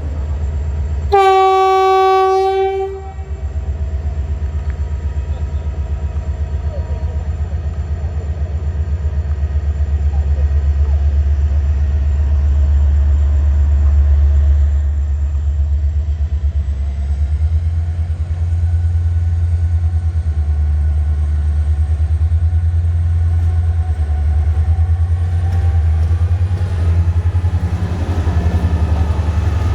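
Romanian GM diesel-electric locomotive sounding one horn blast of about two seconds, then its diesel engine running steadily under load as it pulls the train out of the station.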